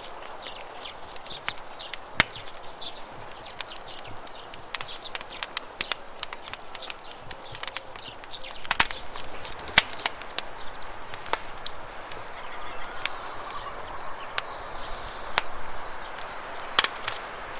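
Campfire crackling with frequent sharp pops and snaps, over the steady rush of a river. A bird calls with a thin high note near the end.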